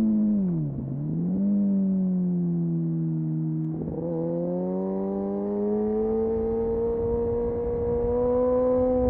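Kawasaki Ninja motorcycle engine through an Arrow aftermarket exhaust with the dB killer removed, under way. The engine note drops sharply and comes partly back up about a second in, stays low for a few seconds with a brief break near the middle, then climbs steadily as the bike pulls.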